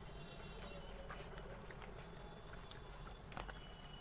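Soft chewing and small mouth clicks, with light crinkling as gloved hands handle food on a paper wrapper, over a faint steady hum.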